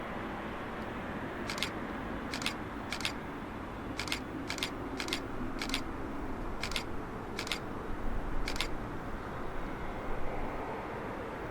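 Steady low rumble of the Boeing 777-300ER's distant jet engines, with about a dozen sharp clicks scattered at irregular intervals over it.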